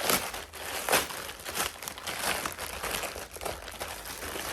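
Packaging crinkling and rustling in irregular strokes as a parcel is opened by hand, with the sharpest crackles near the start and about a second in.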